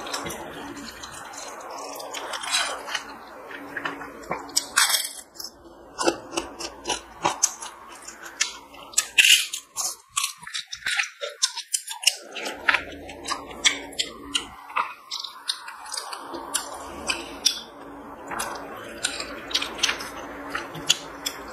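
Close-miked chewing and wet mouth sounds: many short clicks and smacks at an uneven pace, with fingers mixing rice on a steel plate.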